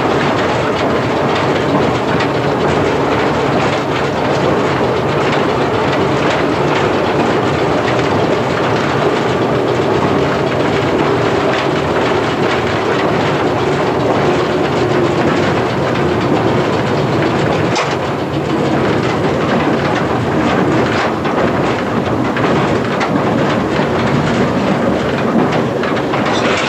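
1927 Standard stock electric tube train running steadily at speed, heard from the cab: a continuous rumble of wheels on the rails with repeated clicks from rail joints.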